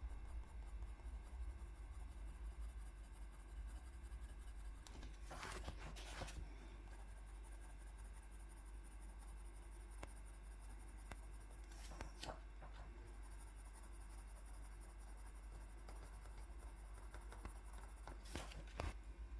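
Faint scratching of colouring strokes on paper as a drawing is shaded in, a few strokes standing out about five seconds in, around twelve seconds, and near the end.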